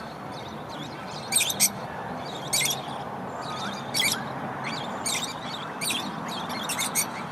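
Small birds chirping: short, sharp, high calls about once a second, sometimes in quick pairs, over a steady background noise.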